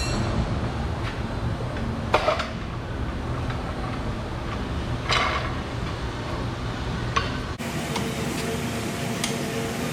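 Hand tools clinking and knocking against steel suspension parts: a few sharp metallic strikes a couple of seconds apart, over steady background noise.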